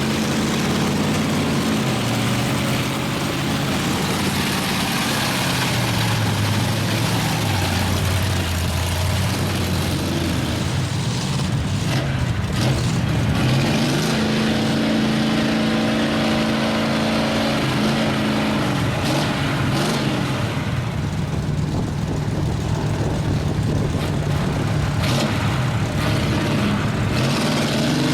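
Big lifted mud truck engine revving hard, its pitch climbing and dropping several times, over a constant loud rushing noise.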